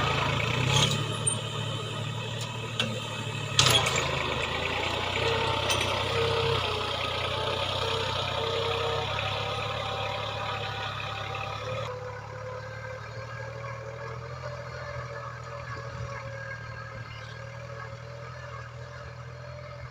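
New Holland 4WD tractor's diesel engine running steadily, with a few sharp knocks in the first four seconds. The engine sound slowly grows quieter.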